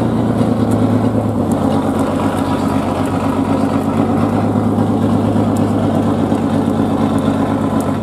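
A truck's engine running steadily, a loud, even drone that holds one pitch.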